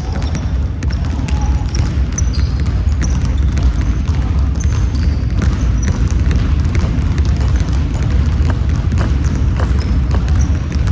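Basketball game in a gym: a ball bouncing, with scattered short high sneaker squeaks, over a steady low rumble.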